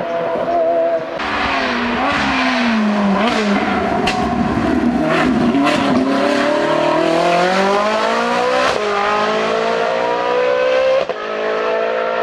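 Race car engine on a hill climb: the revs drop for the first few seconds, with several sharp pops around the middle, then climb steadily as the car accelerates hard, with a brief break in the sound near the end that fits a gear change.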